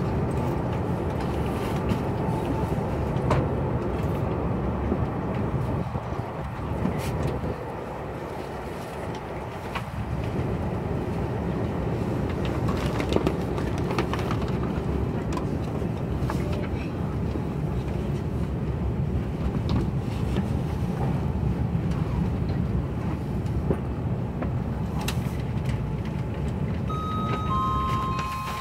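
Steady running noise of a KTX high-speed train heard from inside the passenger car, with scattered faint clicks. Near the end a chime of a few steady tones begins, the onboard signal that comes before a station announcement.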